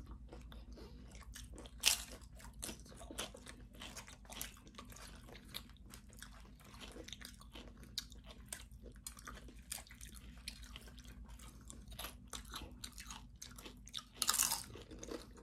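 Close-miked chewing and crunching of tortilla chips from loaded nachos: a run of irregular crisp crunches, with a loud bite about two seconds in and another cluster of loud crunches near the end.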